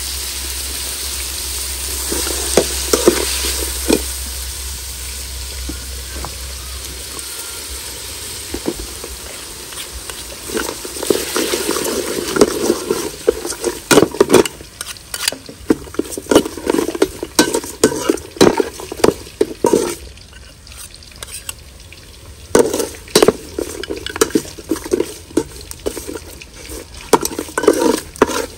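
Chunks of eel frying in a large aluminium pot, sizzling loudly for the first several seconds after sauce is poured in. From about ten seconds in, a metal spatula and spoon scrape and clink against the pot again and again as the meat is stirred, over a weaker sizzle.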